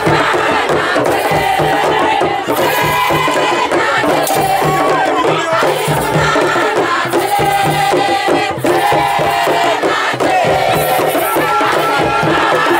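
A crowd of voices chanting and shouting together over music with a steady beat.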